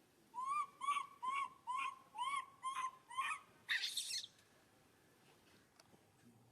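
An animal calling: a quick series of seven short calls, each rising then falling in pitch, about two or three a second, followed by a brief harsh rasping burst.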